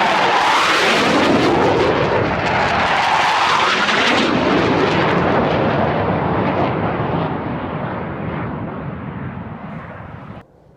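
Low-flying military jet passing close by: a loud roar whose pitch falls as it goes past, then dies away, cut off suddenly near the end.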